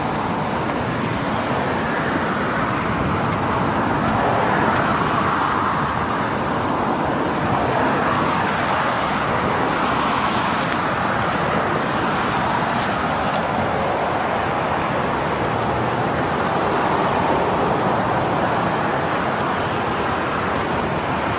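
Steady road traffic noise, with several passing cars swelling and fading.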